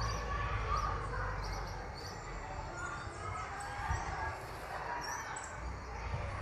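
Small birds chirping in the background: scattered short, high calls a second or more apart.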